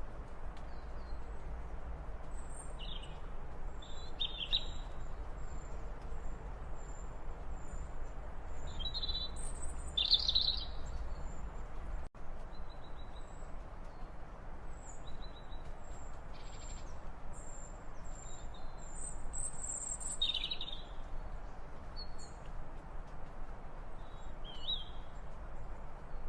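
Several birds chirping and calling over a steady outdoor hiss, including two runs of quick, thin, high repeated notes.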